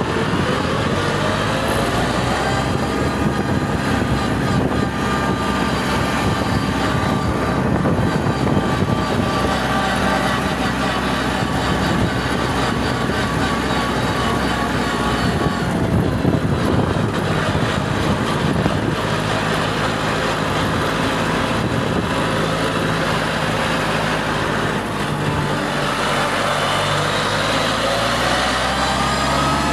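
Tractor engine running steadily, its pitch rising as it speeds up in the first few seconds and again near the end.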